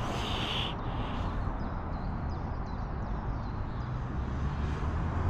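Outdoor ambience on an empty railway platform: a steady low rumble and hiss, with a brief burst of hiss at the start and a run of faint, short high chirps from about one and a half to three and a half seconds in.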